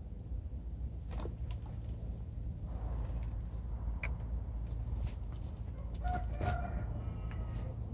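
A bird calls briefly about six seconds in, over a steady low hum, with a few sharp clicks earlier on.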